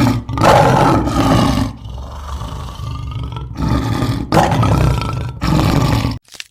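A farm animal calling loudly: several long, rough calls one after another, cutting off abruptly near the end.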